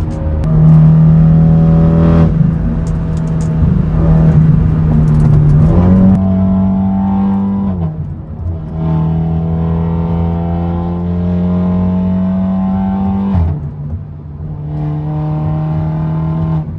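BMW four-cylinder engine on an aftermarket exhaust pulling through the gears under acceleration. Its note climbs in pitch and drops sharply at each upshift, about three times, with the gears short-shifted.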